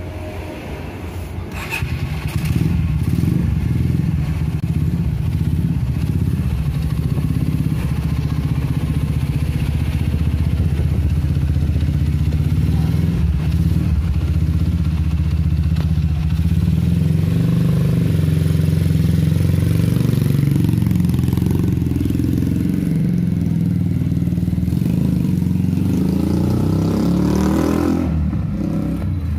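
Honda Megapro single-cylinder motorcycle engine, bored up to 250cc, running steadily through a PDK racing exhaust, with small changes in pitch in the middle.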